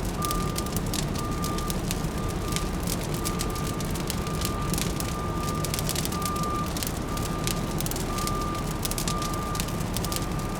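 Fireplace crackling, with dense irregular pops and snaps, layered over a steady low city hum. A faint high-pitched tone comes and goes throughout.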